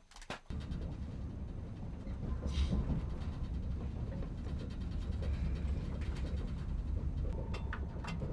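Steady low rumble of a passenger train heard from inside the carriage as it rolls along, starting abruptly about half a second in, with scattered clicks and rattles.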